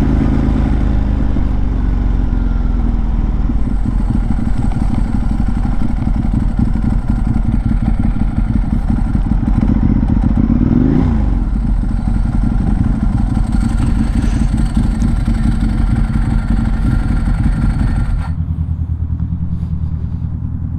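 Ducati 1098's V-twin engine under way with wind rush; the engine note climbs to a peak about eleven seconds in, then drops back. Near the end the rushing stops and the engine settles to a lower, steady note.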